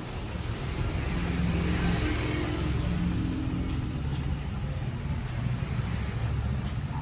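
Road traffic: a motor vehicle's engine running with a low rumble, swelling about a second in.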